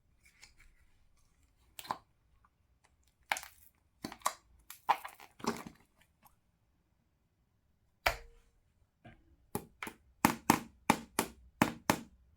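A series of short, sharp clicks and cracks. They are scattered at first, then come quickly, about three a second, over the last three seconds.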